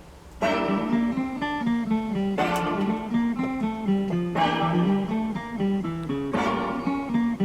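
Guitar playing an instrumental intro, starting about half a second in: a strummed chord about every two seconds with single picked notes stepping up and down in between.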